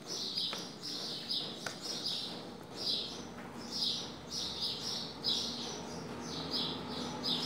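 A bird chirping repeatedly, short high chirps about twice a second, with a couple of faint taps from chicken pieces being arranged in a metal baking pan.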